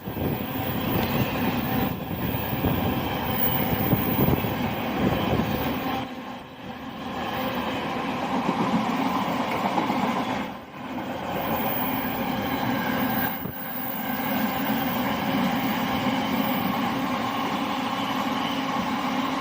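Long freight train of wagons hauled by a Class 66 diesel, running through the station at speed with a steady rumble and the clatter of wheels over the rails. The noise dips briefly three times as it goes by.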